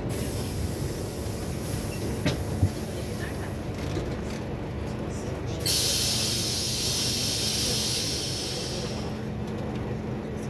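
Scania K280UB4 city bus running under way, heard from inside as a steady low rumble. There are two light knocks about two seconds in. Just past halfway a sudden hiss starts and fades away over several seconds.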